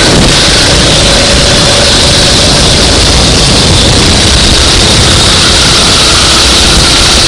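Racing go-kart engine running continuously under way, very loud with a dense, noisy roar and a faint engine note.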